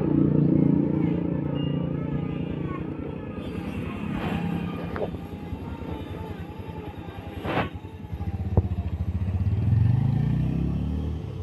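Bajaj Pulsar 150's single-cylinder engine running, then revving up near the end as the motorcycle pulls away, with a few sharp clicks in between. The engine now drives the bike on its freshly fitted clutch plates, which have cured the slipping clutch and poor pickup.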